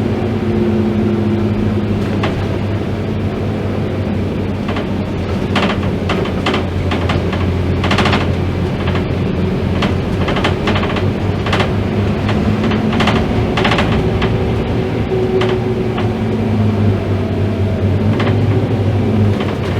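Scania K310IB bus running steadily under way, its engine a constant drone, with many sharp irregular rattles and knocks from about four seconds in until near the end.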